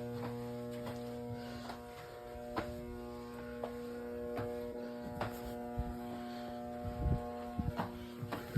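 Steady electrical hum made of several tones in the ship's radio room, with scattered light clicks and knocks. The deepest part of the hum drops out about a second in, and a few heavier thumps come near the end.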